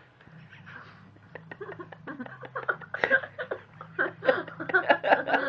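A person laughing: short, rapid bursts of laughter that start about a second and a half in and grow louder toward the end.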